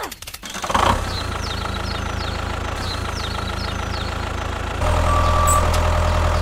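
A vehicle engine running steadily at idle, with a low hum. It gets louder about five seconds in.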